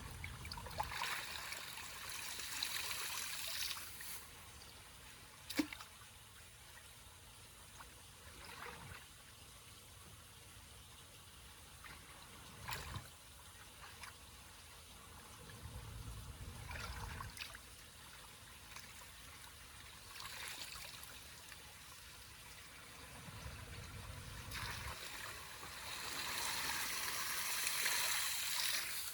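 Water trickling and splashing through a debris-clogged culvert drain. There are louder spells of splashing about a second in and again near the end, and a few sharp knocks.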